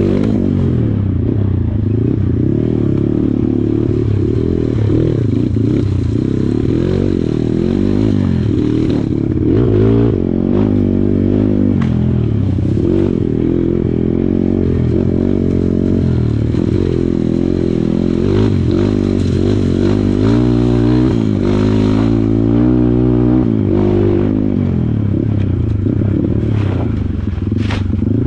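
Kawasaki KLX140 single-cylinder four-stroke trail bike engine running under load on a ride, its revs rising and falling over and over as the throttle is worked, with some rattling and scraping.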